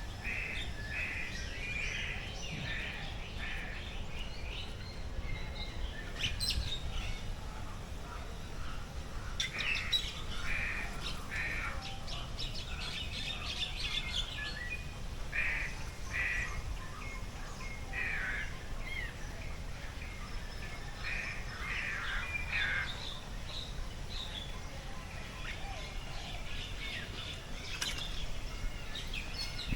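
Birds calling in an aviary: many short chirps and calls repeating in quick clusters, over a steady low background rumble.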